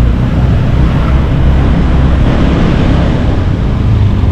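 Wind rumbling on the microphone over a motorcycle's running engine and road noise while riding. The sound is loud and steady throughout.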